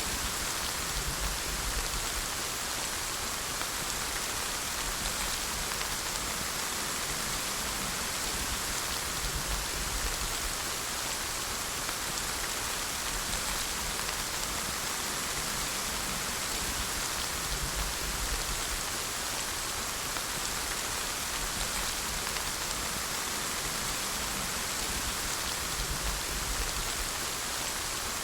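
Steady rainfall, an even hiss of rain falling on surfaces with a faint low rumble underneath, unchanging throughout.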